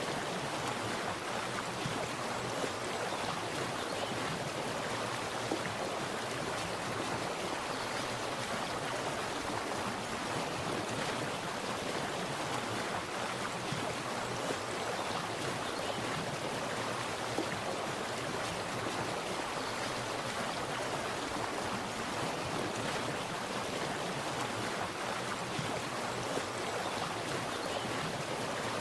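Water splashing and running in a steady, unbroken rush.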